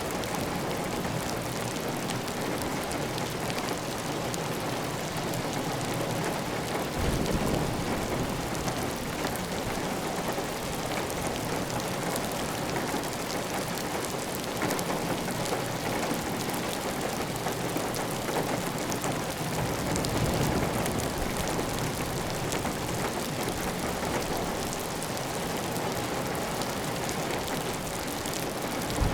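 Heavy rain on a tiled roof: a steady dense hiss dotted with fine drop ticks, with water running off the roof edge. The sound swells, deeper, about seven seconds in and again around twenty seconds in.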